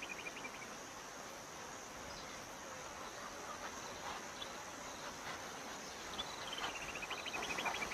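Insect chorus, like crickets: a steady, faint, high-pitched drone, with a short trill of rapid chirps near the end.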